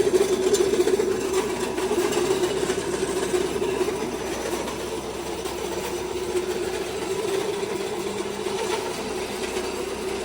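Pellet feed mill running steadily, a continuous rough mechanical drone.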